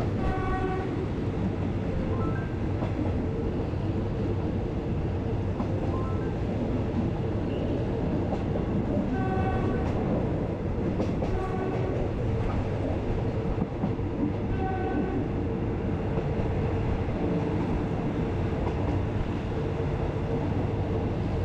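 Passenger train running, heard from inside the carriage: a steady rumble of the wheels on the track, with a few short toots of the horn, two near the start, more around the middle and one later.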